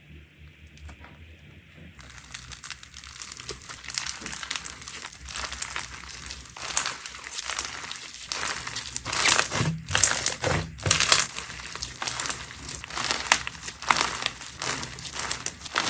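Slime being handled and squeezed, making a dense crinkling crackle of many small pops that grows louder toward the middle.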